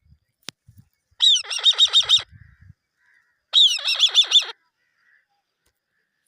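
A young eagle calling: two quick series of sharp, high chirping notes, about six notes to a series, each note sliding down in pitch, the two series about two seconds apart.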